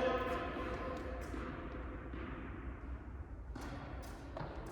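Two sharp knocks of a tennis ball, racket strikes or court bounces, about a second apart near the end, echoing in a large indoor tennis hall.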